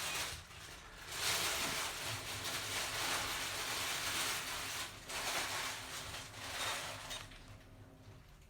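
Rustling of packaging being handled, loud from about a second in and dying away near the end.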